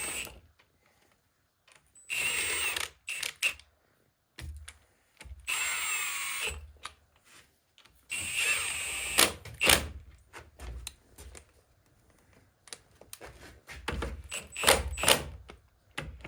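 Power drill running bolts into the NV4500 transmission case in three short bursts of about a second each, the motor whine dipping and rising as a bolt seats, with metal clicks and knocks from the tools and parts in between.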